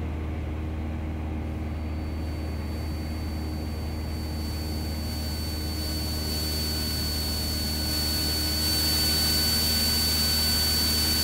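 Cessna 172SP's four-cylinder Lycoming engine and propeller droning steadily in cruise, heard from inside the cabin. A thin high steady whine comes in about two seconds in, and the drone grows a little louder over the last few seconds.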